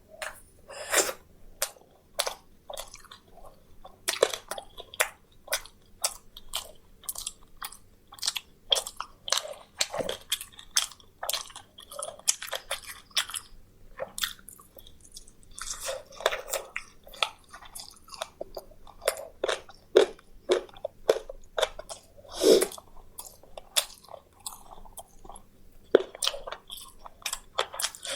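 Close-miked chewing and crunching of crispy fried meat: many sharp, irregular crunches and bites follow one another without a break.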